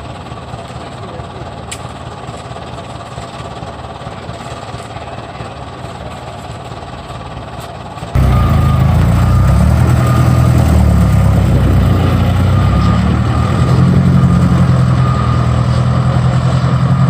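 Truck engine running. About eight seconds in, the sound abruptly becomes much louder and deeper, with a heavy low hum that wavers in pitch.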